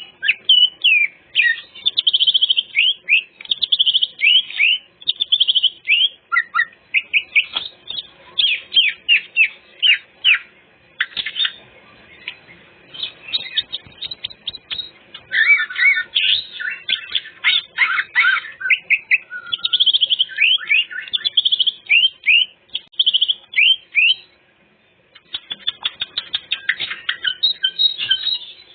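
Cucak ijo (green leafbird) singing a fast, varied song of chirps, slurred notes and whistles, running through its full repertoire of learned phrases, with a short pause near the end.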